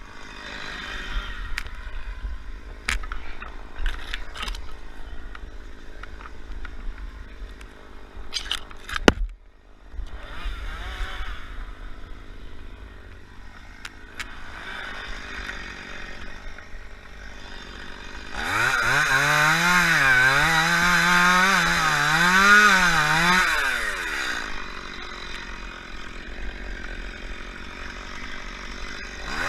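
Two-stroke chainsaw revving and cutting for about six seconds, its pitch wavering up and down under load. Before that there are scattered knocks and clatter over a low rumble, and the saw starts up again right at the end.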